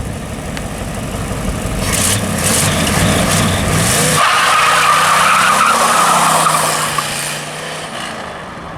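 Corvette's small-block Chevy 350 V8 revving hard as the rear tires spin in a burnout. About four seconds in, a loud steady tire squeal takes over; it lasts about three seconds and then dies away.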